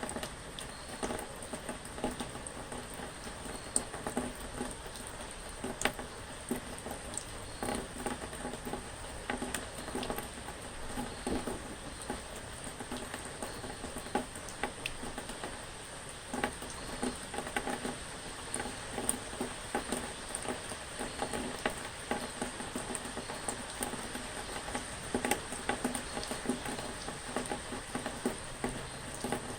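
Rain pattering steadily, a dense run of small drop hits with no pause.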